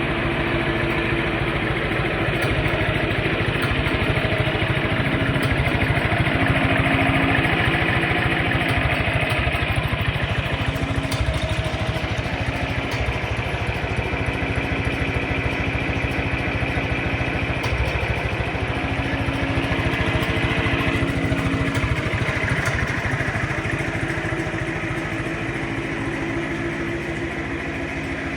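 1962 John Deere 3010's four-cylinder engine, newly replaced, running steadily, a little louder a few seconds in.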